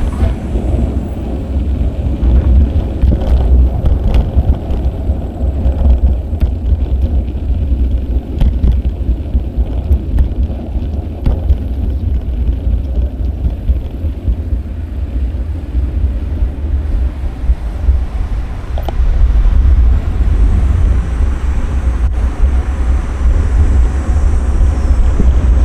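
Wind buffeting an action camera's microphone during a bicycle ride, a loud, steady low rumble, with street traffic mixed in and a rising hiss from about twenty seconds in.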